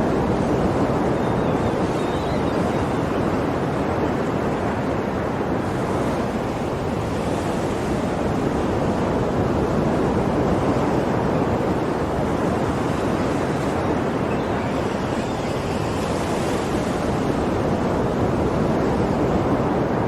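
Ocean waves washing on a shore in a continuous wash of surf, swelling gently now and then.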